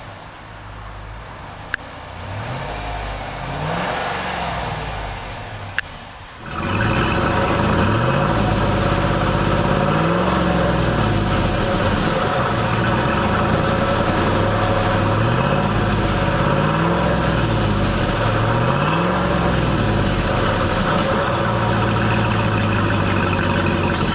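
2008 Hummer H2's 6.2-litre V8 running and being revved in repeated short blips, each rising and falling back to idle. It is quieter for the first six seconds or so, then jumps suddenly to a much louder level and keeps revving.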